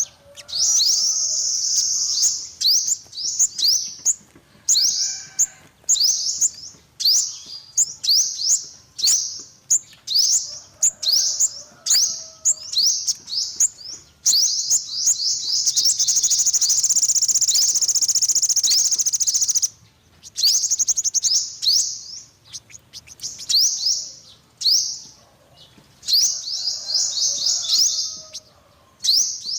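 Yellow-bellied 'five-colour' sunbird singing: quick runs of high, thin chirps. About halfway through comes a sustained twittering trill lasting roughly five seconds.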